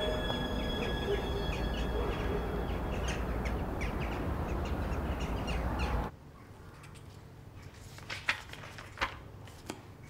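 Outdoor winter ambience: birds chirping and calling over a steady low rumble of wind-like noise. About six seconds in it cuts off suddenly to quiet room tone with a few soft clicks and taps.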